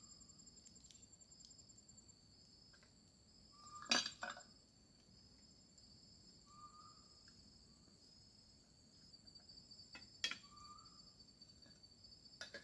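Night insects trill steadily, and a short call comes back every few seconds. A few sharp clinks stand out, the loudest about four seconds in and again around ten seconds, like utensils or cookware being handled.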